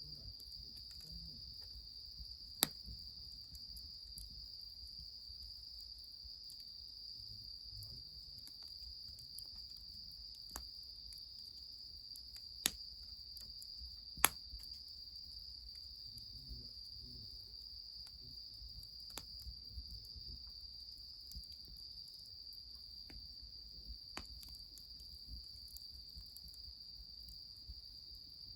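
A steady, unbroken high insect trill, with a faint low rumble beneath it. A few sharp cracks or pops cut through it, three of them clearly louder, about a tenth of the way in and twice around the middle.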